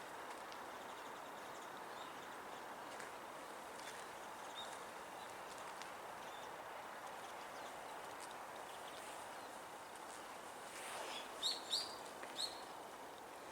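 Steady outdoor background hiss, with a few faint high chirps. Near the end come three short, loud, clear calls from a brown-eared bulbul in quick succession.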